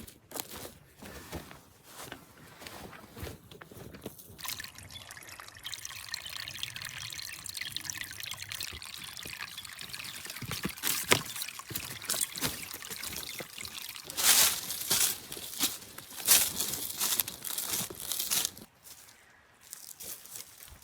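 Water pouring in a steady trickle. In the last few seconds there are several louder, noisier rushes.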